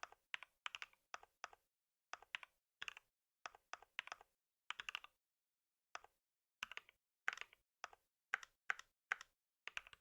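Computer keyboard typing in quick bursts of keystrokes, with short pauses between runs.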